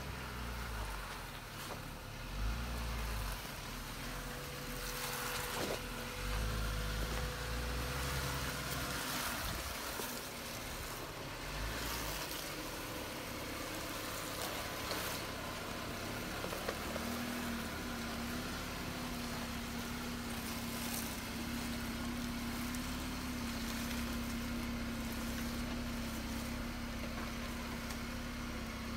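Jeep Wrangler JL Rubicon's engine running at low revs as it crawls slowly over granite rock. In the second half the engine settles into a steady hum.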